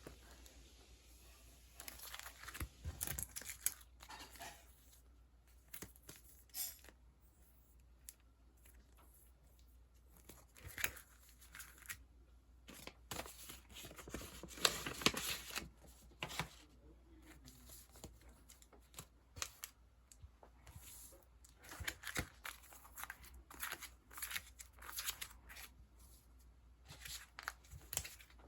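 Sticker sheets and their packaging handled, with irregular bouts of soft rustling and crinkling.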